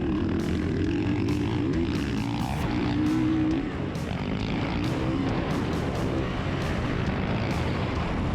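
Motocross bike engine revving up and down under hard riding, its pitch rising and falling, with a dip in level about three and a half seconds in.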